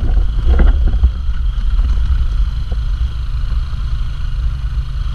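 Riding noise from a Yamaha NMAX scooter on the move: a steady low rumble of wind buffeting the microphone over the scooter's running engine.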